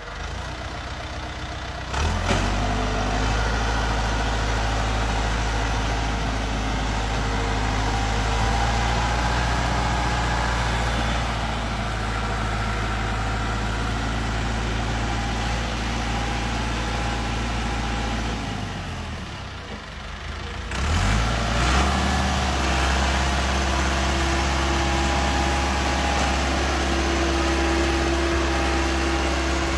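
Tractor engine running steadily. Its sound sags for a moment about two-thirds through, then comes back up and runs on.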